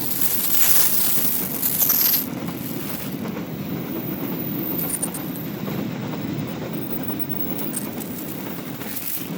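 Fuel tank train passing: a steady rumble of wheels on the rails, with a hissing sound that is loudest in the first two seconds.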